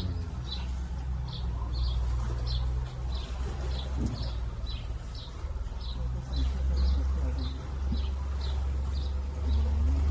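A small songbird repeating a short high chirp about twice a second, over the steady low hum of a boat's motor.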